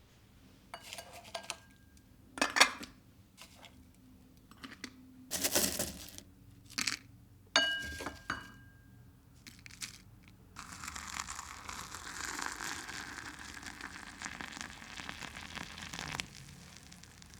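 Dishes and glassware being handled, clinking and knocking, one piece ringing briefly. Then water runs steadily from a tap for about six seconds.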